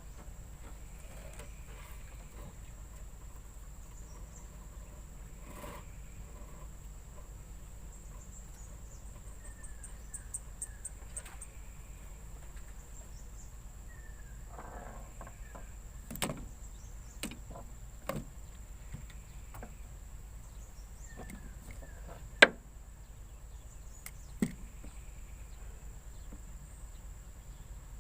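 Steady high-pitched insect drone with a few faint chirps, broken by several sharp knocks and clicks in the second half, one much louder than the rest.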